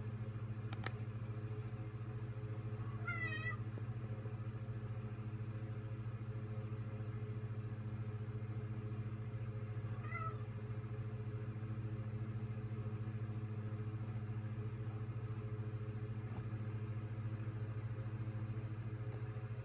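Domestic cat meowing twice over a steady low hum: a longer, wavering meow about three seconds in and a short one about ten seconds in.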